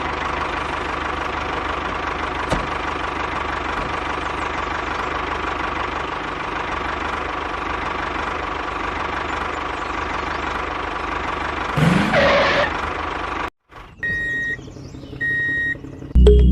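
Small motor of a DIY model tractor running steadily, cutting off suddenly about thirteen seconds in; two short high beeps follow.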